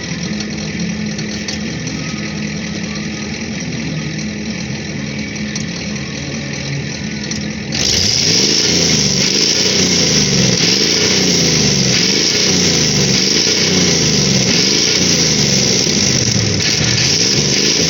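1986 Ford F-250's 6.9 L IDI V8 diesel engine running steadily. About eight seconds in the sound suddenly gets louder and hissier, with a repeated wavering rise and fall in pitch.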